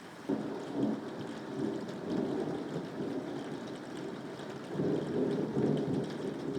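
A roll of thunder over steady rain. The rumble comes in suddenly just after the start, rolls on unevenly, swells again about two-thirds of the way through, then eases off.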